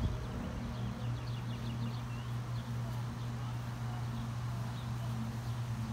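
Small birds chirping, with a quick run of short high chirps about a second in, over a steady low hum.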